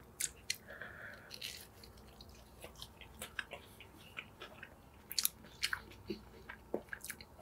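Close-miked chewing of a mouthful of fried chicken sandwich, heard as faint, irregular mouth clicks and small crunches.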